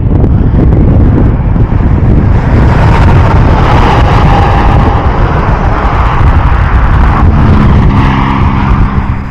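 Loud, rumbling freeway traffic noise from passing vehicles, with wind buffeting the microphone. A steady engine hum comes in over it near the end, and the noise falls away just before the end.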